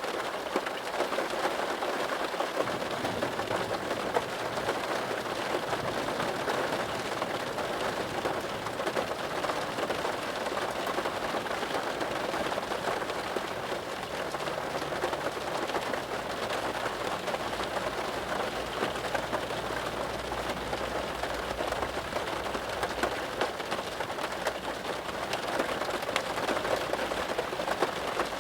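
Steady rain falling, a dense even patter of drops on a surface. A low rumble runs underneath for several seconds in the middle.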